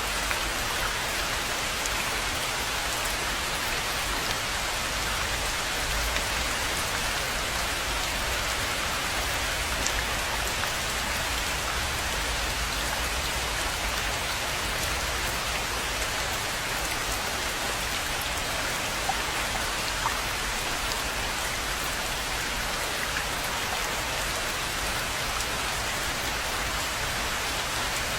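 Steady rain falling on a rainforest pond, an even hiss of drops with an occasional louder single drop.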